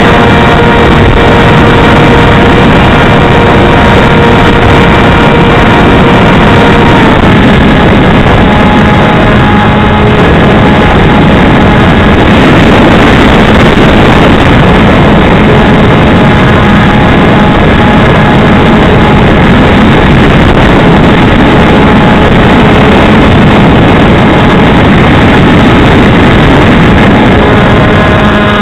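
Electric motor and propeller of an Easystar RC plane whining steadily under loud wind rush; the whine drops in pitch about seven seconds in.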